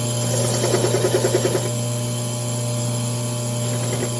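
Drill press motor running steadily while a carbide-tipped Woodpecker Ultra-Shear pen mill trims the end of a Marblewood pen blank. Near the start the cutter chatters against the wood in a quick even rhythm, about seven or eight pulses a second, for about a second, then the machine runs on smoothly.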